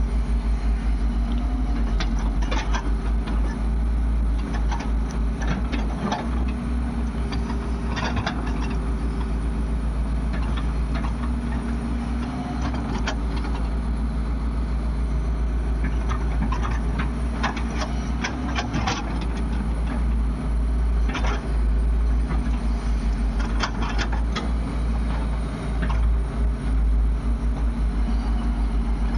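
Heavy diesel machinery engines running steadily with a deep rumble, with scattered short knocks and clatters from the work throughout.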